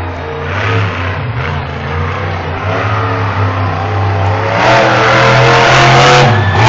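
Monster truck engine running hard and revving, getting louder about two-thirds of the way in as it is pushed harder.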